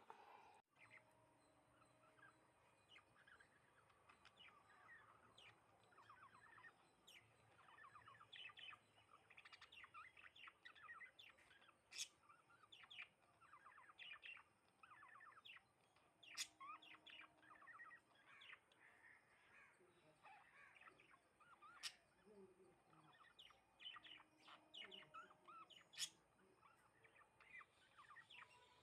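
House sparrows chirping continually in a flock, many short quick chirps overlapping, with a few sharp clicks standing out.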